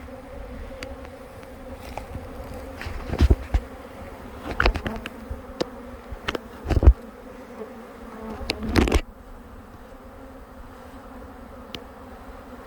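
Honey bee swarm buzzing in a steady hum. Several louder rustles and knocks come through it as the bees are brushed down into a box.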